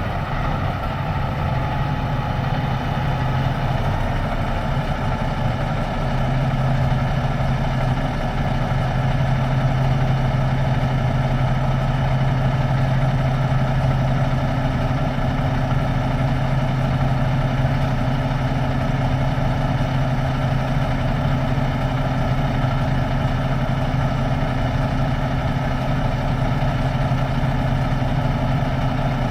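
Semi truck's diesel engine running steadily with a low hum, which grows a little stronger about six seconds in.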